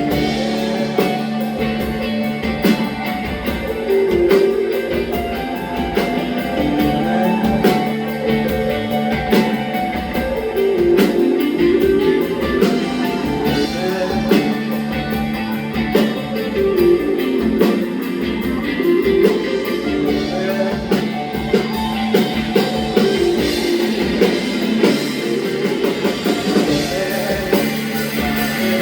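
Rock band music with guitar and drum kit playing steadily and continuously.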